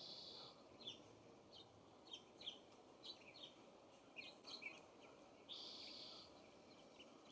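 Faint songbird calls: a string of short high chirps, with two longer buzzy calls, one at the start and one about five and a half seconds in.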